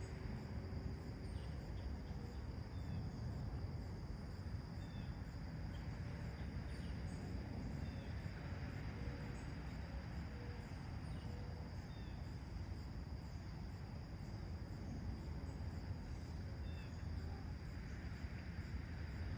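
Faint, scattered short bird chirps over a steady low background rumble and a constant high hum.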